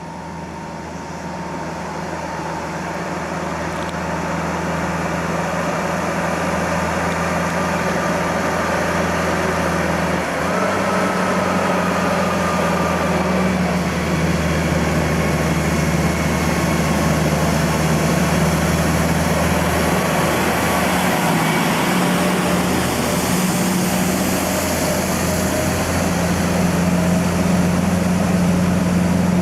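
Oversized off-highway logging truck's diesel engine approaching and passing, growing louder over the first several seconds and then running loud and steady. The deep engine note shifts twice along the way, about a third and two-thirds of the way through.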